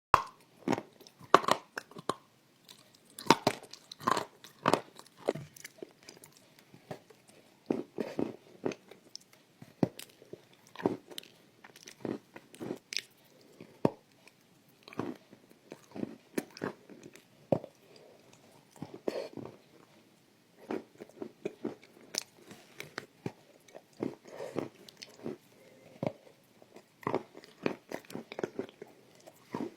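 Close-miked biting and chewing of crunchy food: irregular sharp crunches in quick clusters, with short pauses between bites.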